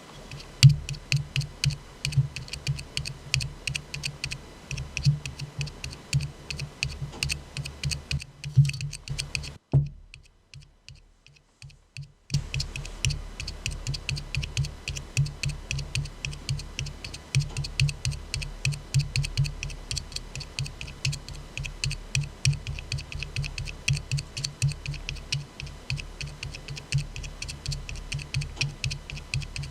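Rapid tapping on an aluminium soda can, quick light taps running in clusters. The taps break off about ten seconds in and resume a couple of seconds later.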